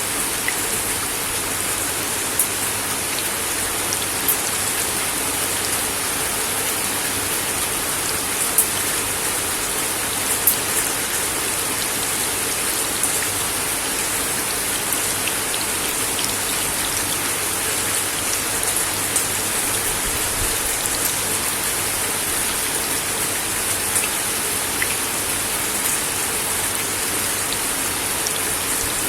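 Steady rain falling on a wooden deck, an even hiss with scattered sharper drop clicks, a few louder ones about 8 and 10 seconds in.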